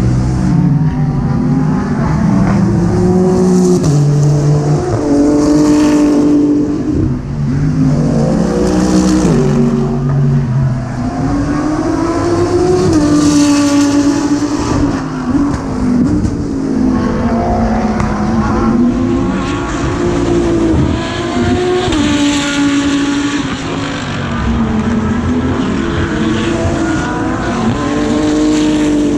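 GT3 race car engine heard onboard at racing speed, its pitch climbing through the revs and dropping sharply at each gear change, several times over as the car accelerates and brakes.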